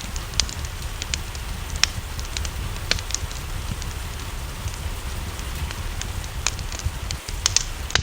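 Wood fire crackling, with irregular sharp pops over a steady hiss of rain.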